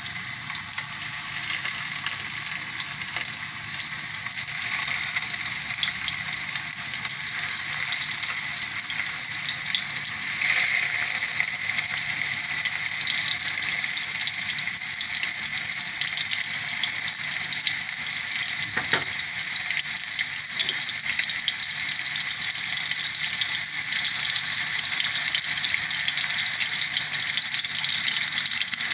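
Beef gola kababs sizzling as they shallow-fry in hot oil in a non-stick frying pan: a steady hiss with fine crackles, growing louder about ten seconds in.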